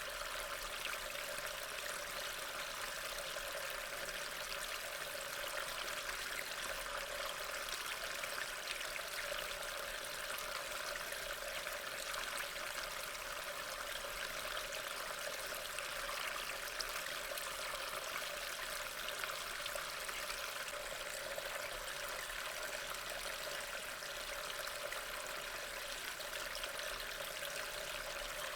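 Steady rain, an even hiss of falling water that does not change.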